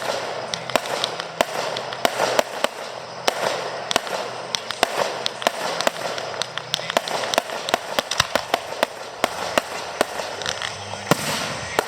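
Fireworks display: a rapid, irregular run of sharp bangs, several a second, over a continuous noisy rumble of bursting shells.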